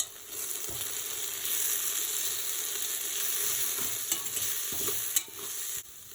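Onion-tomato masala sizzling in oil and ghee as it is stirred, with powdered spices just added, and a few sharp knocks of the spoon against the pot. The sizzle cuts off suddenly near the end.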